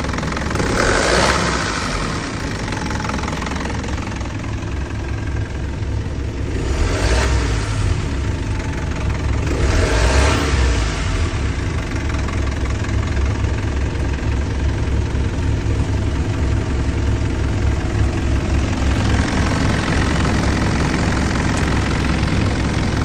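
Mitsubishi Rosa bus's 4M50 four-cylinder turbo-diesel engine running at idle, with three brief louder swells about a second in, around seven seconds and around ten seconds in.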